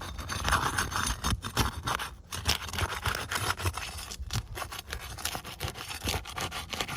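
Asphalt roof shingles being pried loose: irregular scraping and rubbing under the shingle tabs, with many sharp clicks.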